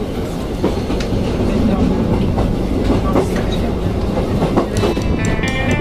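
Running noise inside a tourist train's open-windowed wooden carriage: a steady rumble from the wheels on the track, with irregular clicks and clacks as they pass over rail joints. Music comes in near the end.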